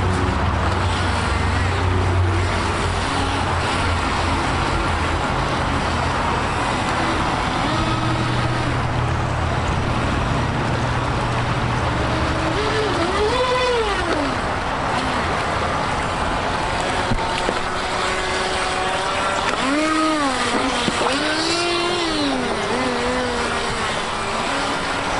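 Small electric JetJam Pool Racer RC jet boat motors whining, their pitch rising and falling as the throttle is worked, twice in the second half. The whines sit over a steady rushing noise from the creek.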